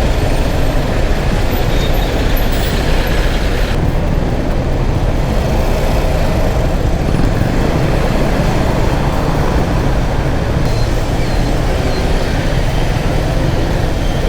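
Steady rush of wind and road noise from a motorcycle riding through heavy traffic, with the engine and surrounding vehicles blended in; the hiss eases a little about four seconds in.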